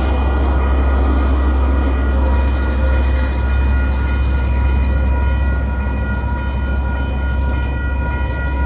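KiwiRail DL class diesel-electric locomotive passing close by with its freight train, its engine giving a loud, steady deep rumble as the wagons roll past.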